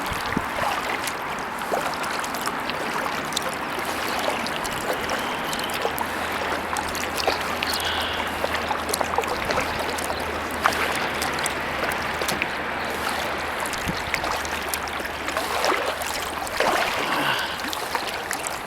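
Kayak being paddled: water trickling and dripping off the paddle blades, with many small splashes, over a faint steady low hum.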